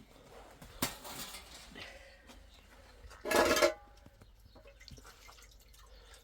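A knock and brief rustle about a second in, then a louder, half-second clatter with a ringing tone a little past three seconds in, like household things knocking together.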